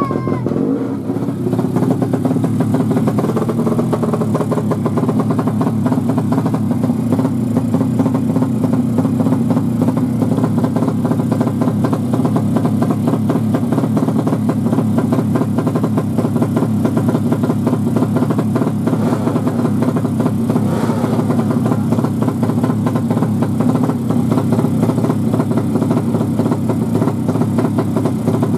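Tuned Yamaha MX King motorcycle engine, bored up to 200cc, running loud and steady at a constant speed.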